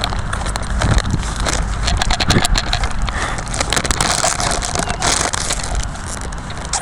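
Footsteps crunching over the ground on a walk, with many small crackles and cracks, over a steady low rumble on the microphone.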